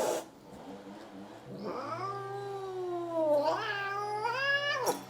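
Domestic cat letting out one long, drawn-out yowl lasting about three seconds, its pitch wavering and rising toward the end. It is the defensive warning yowl of a stressed cat that will not let a groomer brush it.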